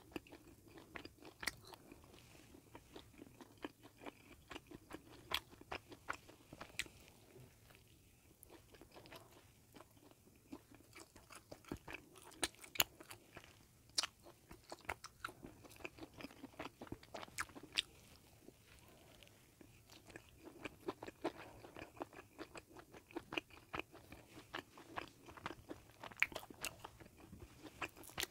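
Close-miked eating of a bagel sandwich: biting into the bread and chewing, with a dense, irregular run of sharp crunches and mouth clicks.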